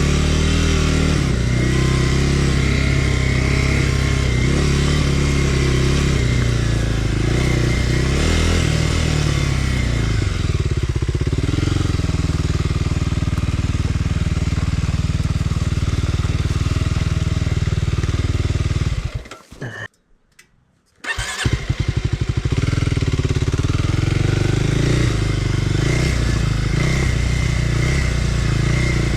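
Kawasaki KLX300R dirt bike's single-cylinder four-stroke engine running under changing throttle on single track, its pitch rising and falling. About two-thirds of the way through the sound drops away to near silence for a couple of seconds, then comes back suddenly.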